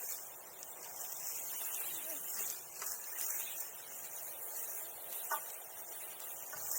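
Steady high chirring of insects, with a few faint clicks and one sharper pop about five seconds in from a wood bonfire crackling.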